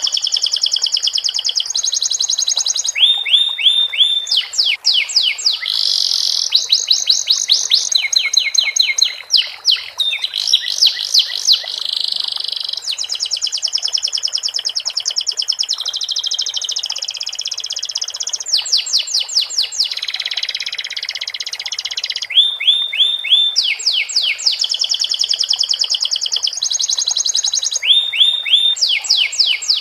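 Domestic canary singing a long, unbroken song of fast repeated trills, rapid sweeping notes and buzzy rolls that change every second or two. Its song is filled with phrases learned from the sikatan londo flycatcher.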